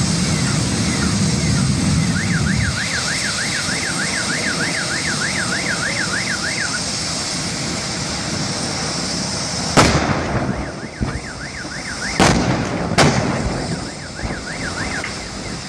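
A car alarm warbles up and down over a steady rushing roar. About ten seconds in comes a sharp, loud bang, followed by two more a couple of seconds later: further explosions from the burning truck.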